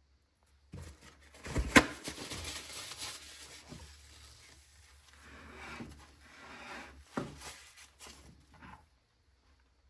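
Dishware and cutlery handled while a plated risotto is served: a sharp clink about a second in, scraping and rustling, then another knock about seven seconds in.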